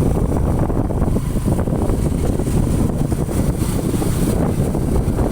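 Wind buffeting the microphone over the rumble of a moving motorcycle, a steady loud low rush with no distinct engine note.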